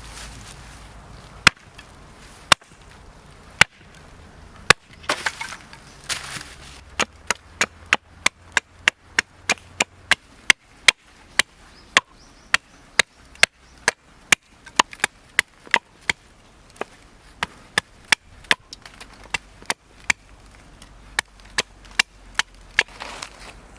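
Wood being chopped with a blade: a series of sharp, dry strikes, a few spaced about a second apart at first, then a steady run of about two strikes a second.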